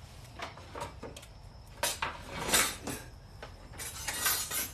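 Hard items clattering as they are handled and set down: a handful of separate knocks and clinks, then a stretch of rustling near the end.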